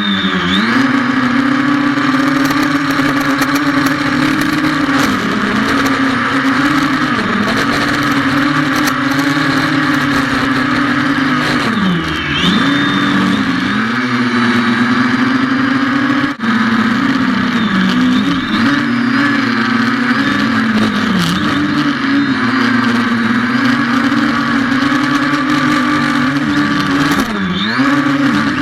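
Xiaomi FIMI A3 quadcopter's motors and propellers buzzing in flight, the pitch dipping and recovering every few seconds as the motors change speed.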